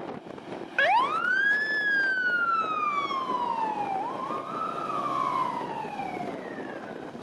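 Fire truck siren wailing: the tone climbs quickly, then slides slowly down, climbs again partway and falls away, over the sound of road traffic.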